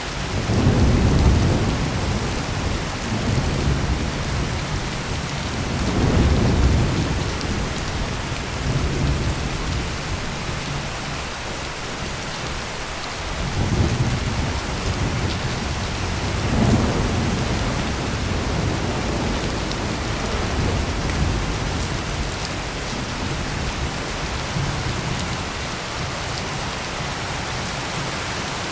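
Heavy rain pouring steadily, with a long roll of thunder that begins at the start and swells several times, about a second in, around six seconds, and twice more past the middle, before dying away to rain alone near the end.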